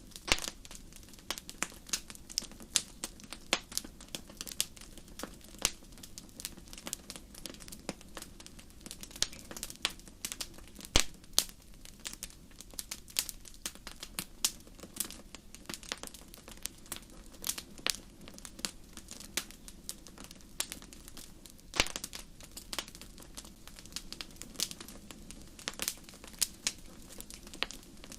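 Campfire crackling: irregular sharp pops and snaps, several a second, over a steady low background noise, with a louder pop about 11 seconds in and another near 22 seconds.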